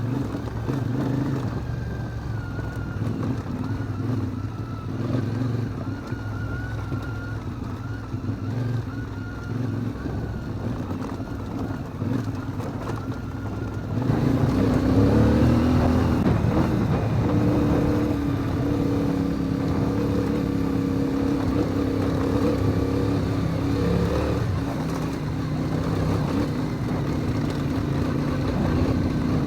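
CFMoto Ibex 450 MT adventure motorcycle's parallel-twin engine running under way, its revs rising and falling. About halfway through, the engine sound turns abruptly louder and brighter.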